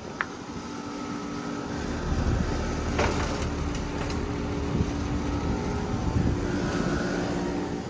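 Outdoor air-conditioner condensing unit running with a steady hum. About three seconds in comes a single sharp knock, with a few faint ticks after it, as bricks are set back on top of the unit.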